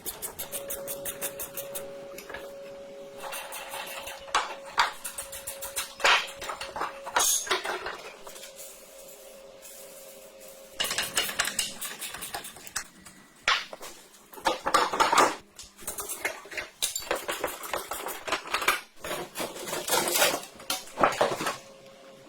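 Metal parts and hand tools clinking, knocking and scraping in irregular bursts, busier in the second half. A faint steady hum runs underneath for about the first ten seconds.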